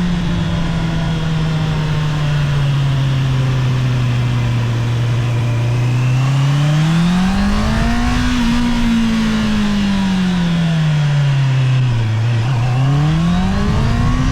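Honda CBR650R's inline-four engine on its stock exhaust, ridden on the road. The revs sink slowly at first, rise smoothly to a peak about eight seconds in, fall back, and climb again near the end.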